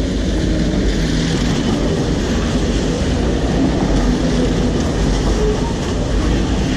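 Diesel locomotive and its passenger cars passing right beside the track: a loud, steady rumble of the engine and of steel wheels running over the rails.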